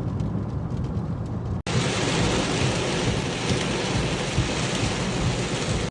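Heavy rain falling as a steady hiss, louder and brighter after a cut about a second and a half in.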